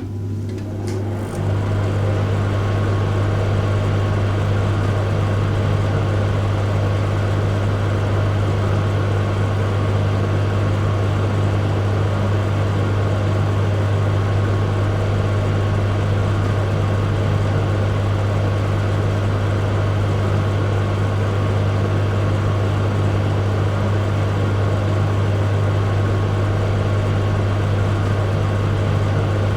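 Microwave oven running: a steady low hum with a fan-like whir over it. A few clicks near the start, and the hum comes in fully about a second in.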